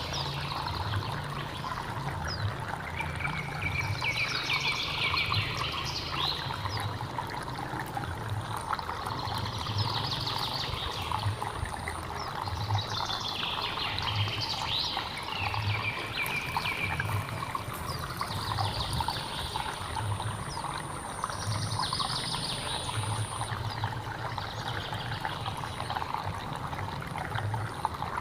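A hill stream trickling steadily, with low gurgles repeating every second or so. A bird sings short, fanning phrases every three to four seconds over it, and a thin, high, steady whine runs through the middle stretch.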